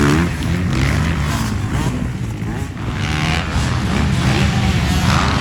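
Motocross bikes' engines running hard on the track, their pitch climbing and falling as riders accelerate and shift, then holding steadier in the second half.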